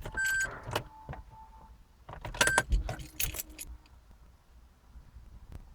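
Keys jangling and clicking in two short bursts, one at the start and another about two seconds in, each with a brief high beep.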